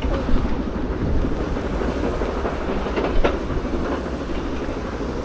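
Quarry machinery working rubble: a steady mechanical rumble with a few sharp clanks, one just after the start and two a little after three seconds in.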